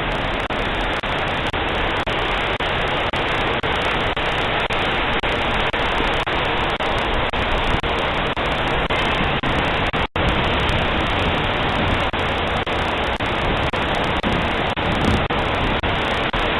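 Steady, even rushing noise with no distinct events, cutting out briefly about ten seconds in.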